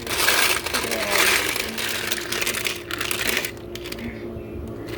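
Ice cubes from a countertop ice machine clattering and crunching against each other, loudest for the first three and a half seconds and then easing off, with a faint steady hum underneath.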